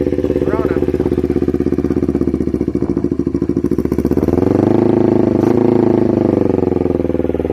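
Kawasaki Ninja 250R's parallel-twin engine idling steadily as it warms up. About four seconds in, it revs up and holds a higher, faster idle.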